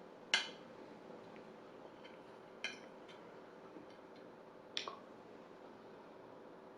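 Eating utensil clinking against a plate three times, about two seconds apart, with a few fainter ticks in between over a steady low room hum.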